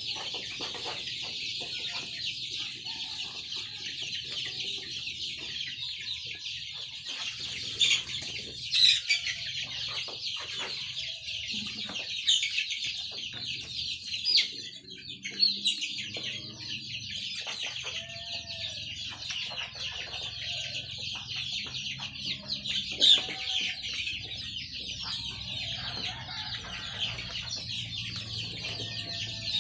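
A flock of Indonesian native kampung chickens calling together: a continuous dense chorus of high cheeping with clucks mixed in, and a few louder squawks standing out several times.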